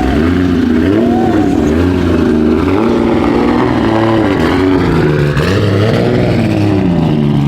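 Car engine revving over and over, its pitch climbing and dropping back with each rev.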